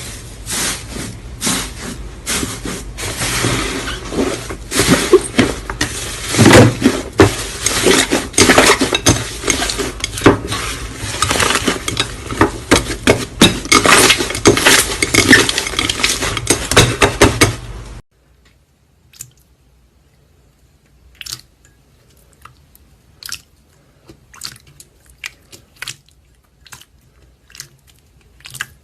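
Slime being squeezed and worked by hand, giving a dense run of crackling, popping clicks. About two-thirds of the way through it cuts off abruptly to a much quieter stretch of sparse single clicks.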